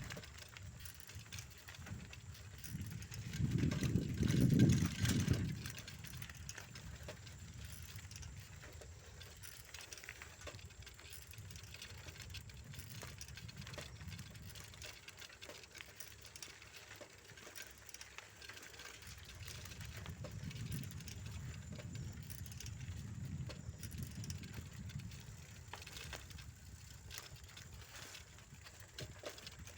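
Bicycle ride along a rough rural path: a steady run of small rattles and clicks, with low wind rumble on the microphone that swells about four seconds in and again past the middle.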